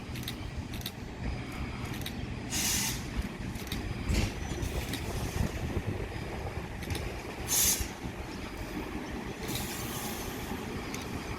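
Red Rattler set F1, a heritage electric suburban train, rumbling along, with short bursts of hiss about three and eight seconds in and a single knock about four seconds in.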